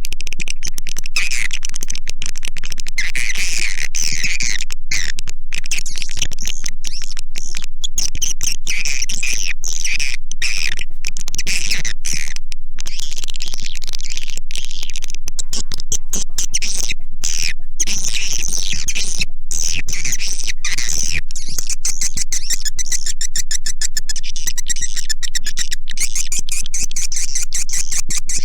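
Recorded calls of edible-nest swiftlets: a dense, unbroken mass of high chirps and rapid clicking twitters. This is a swiftlet call track of the kind played from bird houses to lure swiftlets in to roost and nest.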